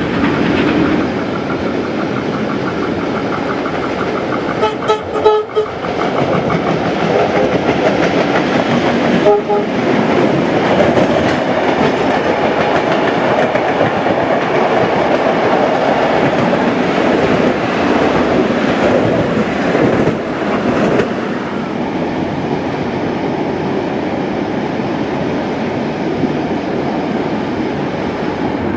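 Passenger train running along the track, with a steady clatter of wheels over rail joints and points. A train whistle sounds as a chord about five seconds in and again briefly about nine seconds in.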